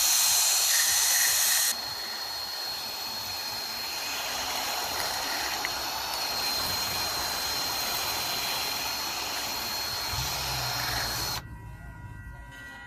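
Steady high-pressure hiss with a thin, high, constant whistle as the carburetor of a snowblower that won't start on old gas is blown out. The hiss is loudest for the first couple of seconds, runs on somewhat quieter, and cuts off suddenly near the end.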